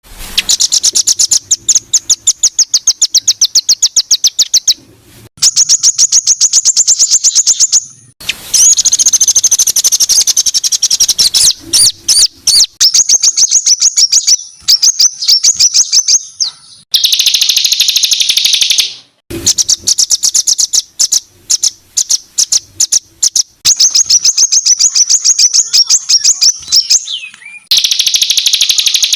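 Songbird singing loud, high-pitched rapid trills of harsh repeated notes ('tembakan kasar'), in bouts of a few seconds each with short pauses between.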